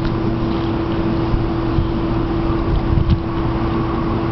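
Steady mechanical hum holding one pitch, over a continuous low rumble.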